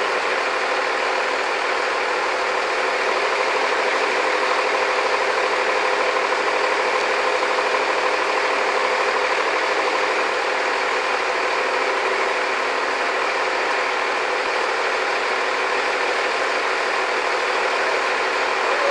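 An engine running steadily at an even pitch, with no changes in speed.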